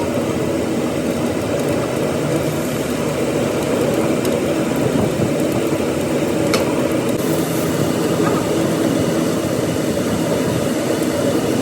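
An engine running steadily, with one short sharp click about six and a half seconds in.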